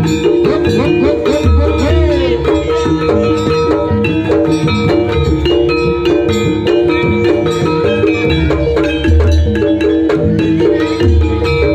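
Javanese jaranan gamelan music played loud through a sound system: mallet metallophones ringing quick note patterns over two steady held notes, with deep drum beats every few seconds.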